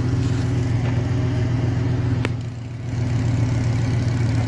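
Engine of a vibrating construction machine (asphalt/concrete compactor) running steadily with a low hum. A sharp click comes a little past two seconds in, and the engine sound dips briefly before returning.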